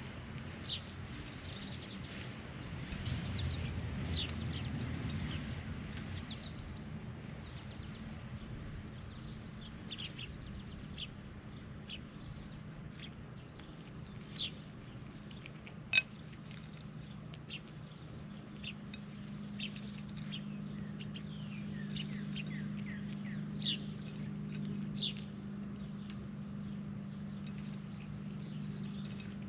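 Birds giving short, scattered chirps over a steady low hum. A louder low rumble swells around three to five seconds in, and a single sharp click comes about sixteen seconds in.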